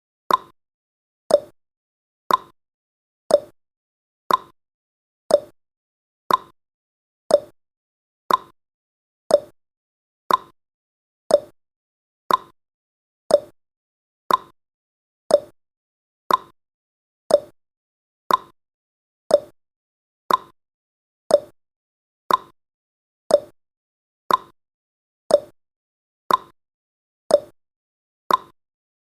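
Countdown timer sound effect: a short, sharp click once a second, evenly spaced, marking each second.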